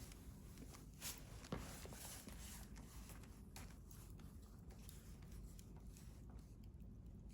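Wood fire crackling faintly: scattered small pops and snaps, with two louder snaps about a second and a second and a half in, over a low steady background noise.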